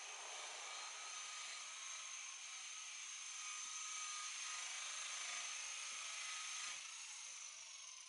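Electric buffer running steadily with a high motor whine over a hiss, then winding down about seven seconds in.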